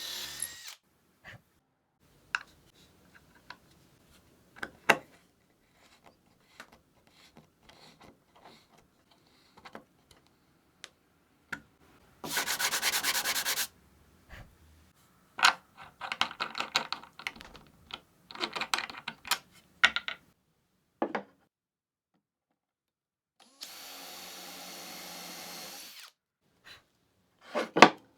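Woodworking shop sounds: scattered clicks and knocks of wooden parts and hand tools being handled, with several short runs of a handheld power tool. The loudest run comes about twelve seconds in, choppy bursts follow, and a steadier run starts near the end.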